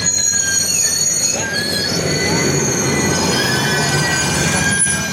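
Train wheels squealing against the rails as a train rolls past: several high, steady squeals overlapping and shifting over a low rumble.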